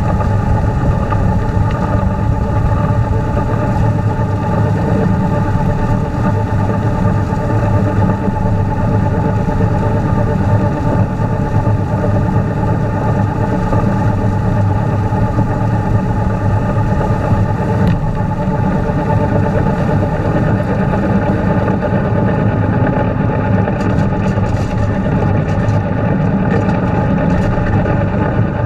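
Tractor engine running steadily at constant speed, with its three-point-hitch snowblower mounted.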